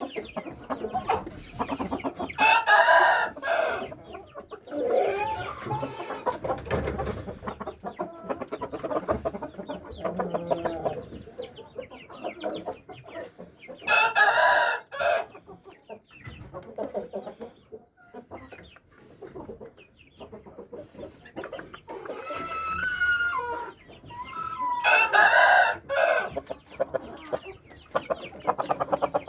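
Shamo gamefowl crowing three times, with softer clucking and scattered clicks between the crows.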